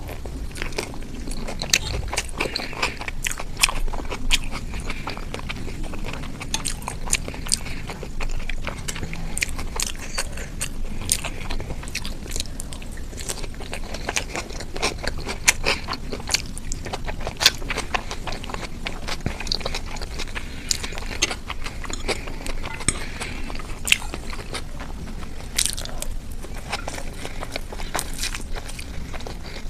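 Close-miked eating sounds: a person chewing and biting food, with many sharp, irregular mouth clicks.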